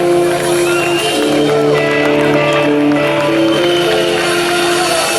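Rock band playing live, with long held chords that change every second or so and no singing.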